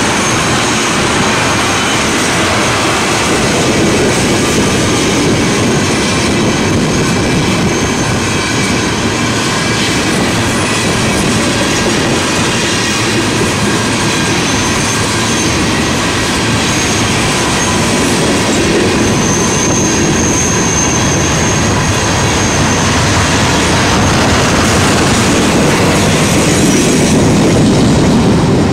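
Rail cars of a welded rail train, flatcars loaded with long rail sections, rolling past with a steady rumble of wheels on the track and thin high wheel squeals. A brighter high squeal stands out about twenty seconds in, and the end of the train clears near the end.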